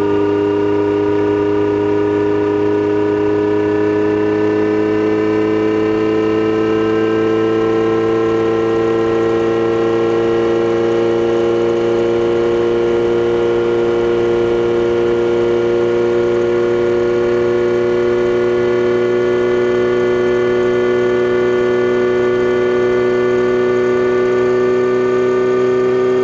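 Kawasaki Z900RS inline-four running at a steady cruise through a Holeshot Lextek header and 10-inch Bad Boy muffler, its pitch creeping slowly upward as speed builds. Heard from a mic under the seat.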